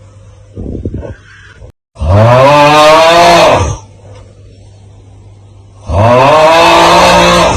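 The looped 'Aauuggh' meme sound effect: a man's loud, strained groaning yell whose pitch rises and then falls, heard twice, each about a second and a half long. A shorter, quieter raspy sound comes about a second in, between the yells.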